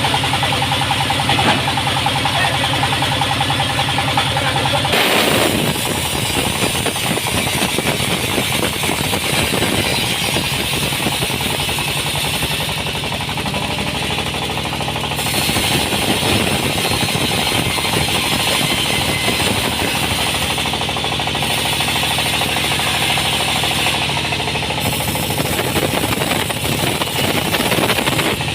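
Sawmill saw and its machinery running loud and steady with a fast rattling drone. About five seconds in the steady hum gives way to a rougher, noisier sound that carries on to the end.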